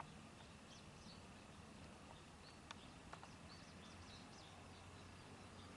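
Faint outdoor ambience: small birds chirping in short, repeated high calls over a low steady hum, with two brief clicks near the middle.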